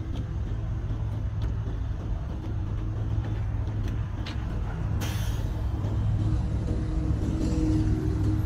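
Road traffic: vehicle engines running close by in a low, steady rumble, with a sudden hiss about five seconds in that fades within about a second.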